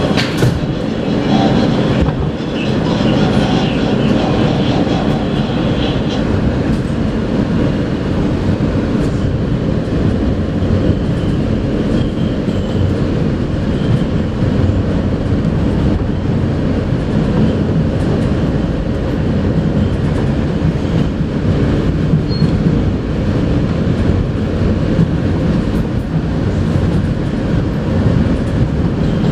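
R160A subway car running along the track, heard from inside the car: a steady rumble of wheels on rail. A faint high tone is heard in the first few seconds as the train pulls out.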